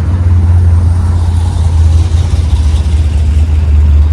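A car engine running at a steady low rumble.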